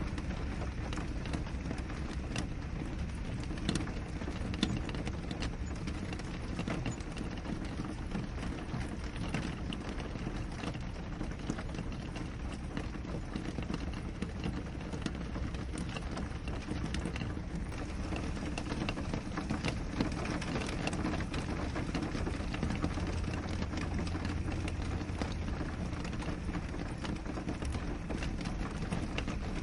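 Steady rain falling on a window: an even hiss of rainfall with many small drop taps scattered through it.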